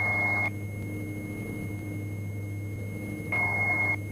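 Steady drone of a Diamond DA42 NG's twin engines and propellers, heard through the cockpit headset intercom. A steady high-pitched tone with hiss cuts off about half a second in and comes back briefly near the end.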